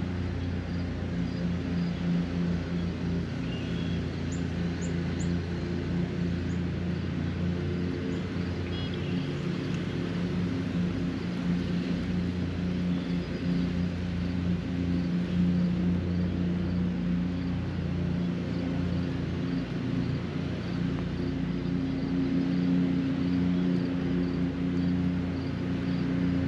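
A steady low engine drone holding several even tones, with a few brief, high bird chirps now and then.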